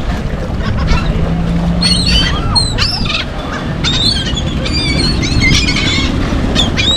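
A flock of gulls calling: many short, high, arched cries, often several overlapping, over a steady low rumble.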